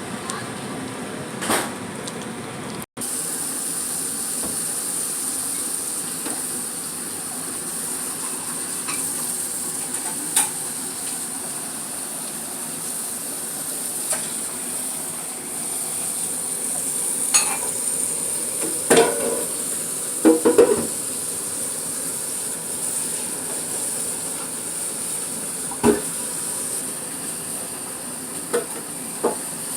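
Pot of meatballs in spaghetti sauce sizzling with a steady hiss, with a few scattered clinks and knocks of a utensil against the pot.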